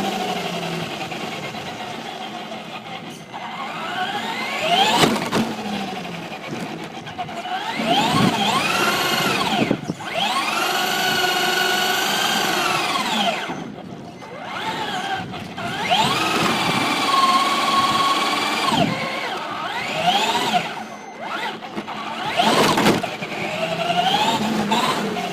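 Electric motor and gear drive of a Traxxas Slash Raptor SVT 2WD RC truck whining under throttle. The whine rises in pitch as the truck speeds up, holds steady at speed for a few seconds, then drops as it slows, over and over in several runs.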